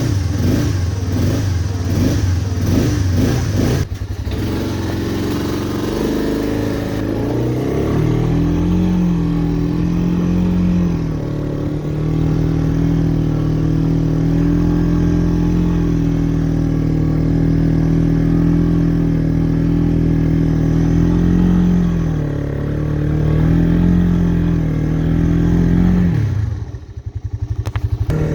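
1985 Honda ATC Big Red 250ES three-wheeler's single-cylinder four-stroke engine running as it warms up: a pulsing idle at first, rising to a steady higher speed about seven seconds in with a few brief dips, then dropping low for a moment near the end before picking up again.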